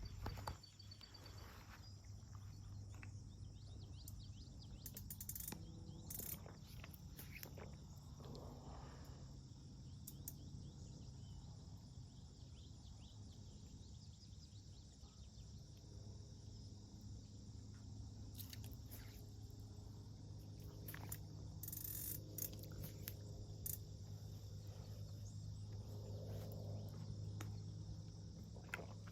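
Faint outdoor ambience: a steady high chirring of insects over a low steady hum, with a few scattered small clicks and knocks.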